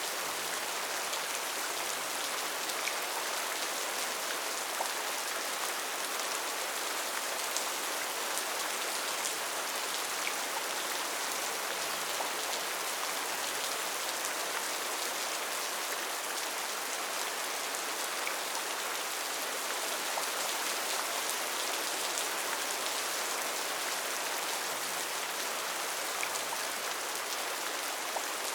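Steady heavy rain falling in a rainforest: an even hiss with scattered patters of individual drops.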